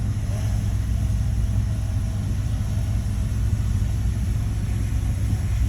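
Shantui bulldozer's diesel engine running steadily with a low rumble.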